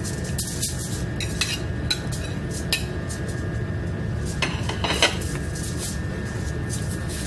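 Dishes, food containers and utensils clinking and knocking as food is handled in a ship's galley: scattered light clinks, with a short burst of clatter about four and a half seconds in, over a steady low hum.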